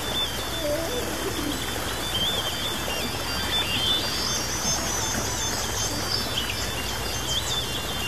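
Birds chirping and whistling, high calls coming and going, over a steady background hiss from a nature sound-effects recording.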